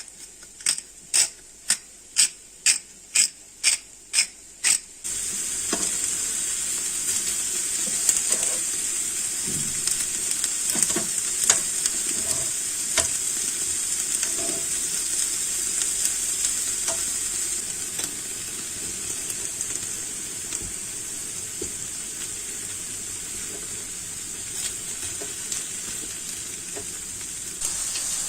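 About ten sharp clicks in an even rhythm, roughly two a second. After about five seconds, food starts sizzling steadily in a frying pan, with occasional light scrapes and knocks of stirring.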